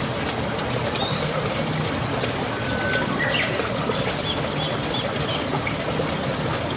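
Birds chirping over a steady background hiss, including a quick run of about five high chirps a little past four seconds in.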